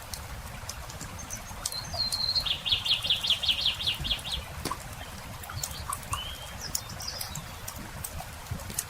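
Campfire crackling with scattered sharp pops, over a low steady rustle. About two seconds in, a songbird gives one high note and then a rapid trill lasting about two seconds, the loudest sound here, followed by a few short chirps.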